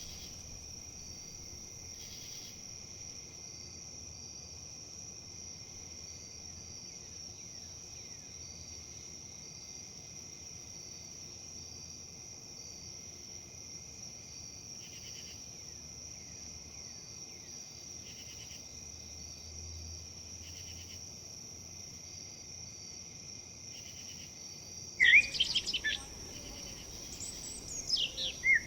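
A steady, high-pitched insect chorus of crickets drones on unchanging. Near the end, birds break in with loud, quick chirps over it.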